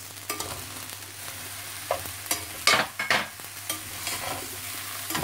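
Fried rice with sausage and mixed vegetables sizzling steadily in a stainless steel pan, stirred with a spatula that scrapes and knocks against the pan several times at irregular moments.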